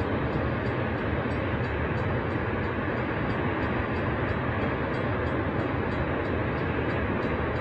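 RS-25 liquid-hydrogen/liquid-oxygen rocket engine firing on the test stand: a steady, dense rushing noise that holds one level without any change.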